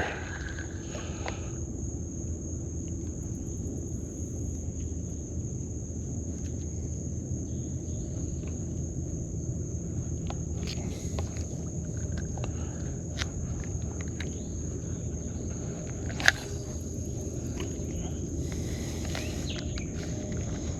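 Steady outdoor ambience: an insect's continuous high, thin trill over a low even background rumble, with scattered light ticks and one sharper tap about sixteen seconds in.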